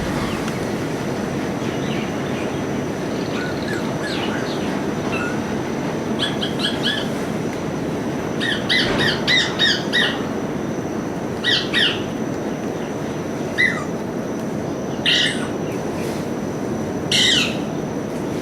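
Pet parrot chirping and squawking in short, quick clusters, the louder bursts coming every second or two in the second half, over a steady background hiss.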